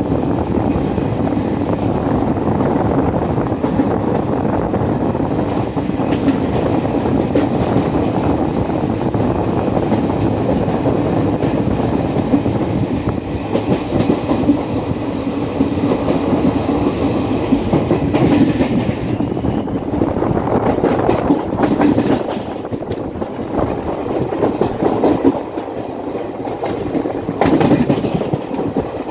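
Passenger train running at speed, a steady rumble of wheels on rail with clickety-clack over the rail joints and scattered sharp clatters from about halfway through.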